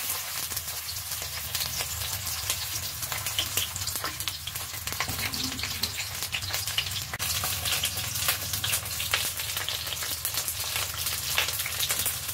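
Stuffed green bell peppers shallow-frying in a few tablespoons of hot oil over a low gas flame: a steady sizzle with many scattered crackles and pops.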